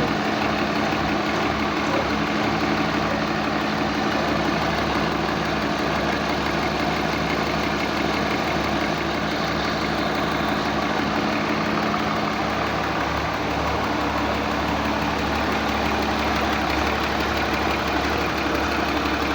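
SANY 210 hydraulic excavator's diesel engine running steadily at idle during a test run.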